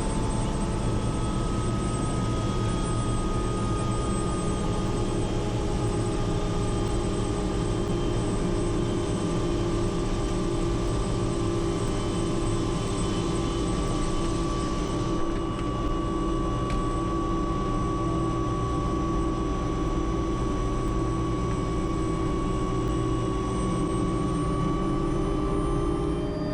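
Bell JetRanger helicopter's turbine engine and rotor running steadily, a continuous whine over a low rumble. About halfway through the high hiss drops noticeably while the whine runs on.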